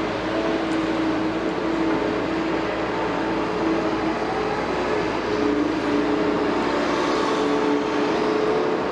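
Liebherr 946 excavator working: its diesel engine runs steadily with a hydraulic whine whose pitch steps up and down several times.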